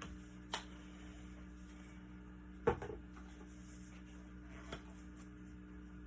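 Steady low electrical hum with three brief knocks or clicks, the loudest about two and a half seconds in.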